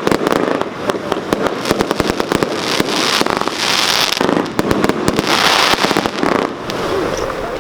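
A 144-shot fireworks cake, World's Toughest Fireworks 'Gold Crystal', firing a rapid series of shots and sharp bangs. It comes in waves with stretches of hiss about every second.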